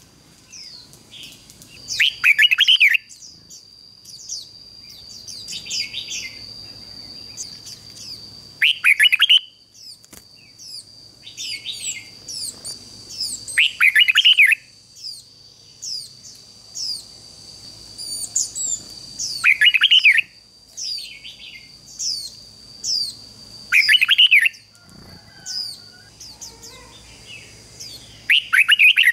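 Red-whiskered bulbul singing loud, bright song phrases every few seconds, six in all, with quicker high chirps between them.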